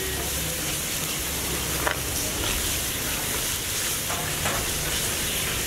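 Food frying with a steady sizzle, with a few faint knocks about two seconds in and again around four seconds in.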